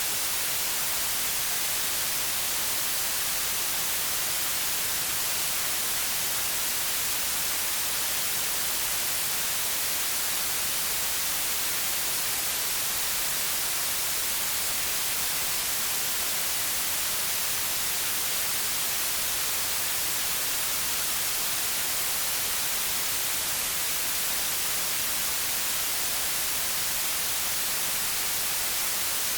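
Steady white noise: an even, unbroken hiss, strongest in the highs, with no changes.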